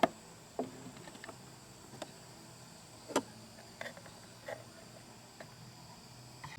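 Scattered knocks and light clinks of objects being handled, about a dozen over several seconds, the loudest right at the start and about three seconds in, some ringing briefly. A faint steady high drone of insects runs underneath.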